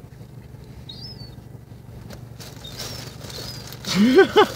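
Low steady hum of an idling car engine, with a short faint high bird chirp about a second in and fainter chirps near three seconds.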